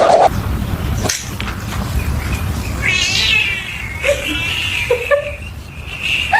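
A cat meowing and yowling: a wavering, high call about three seconds in, then a longer drawn-out call toward the end, over a low rumbling background.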